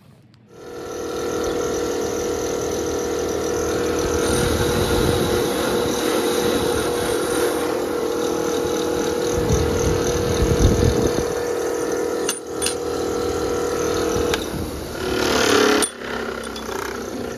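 Power tool running steadily with a constant whine over a low rumble, likely used to clean a part. It stops about fourteen seconds in, and a short, brighter burst follows.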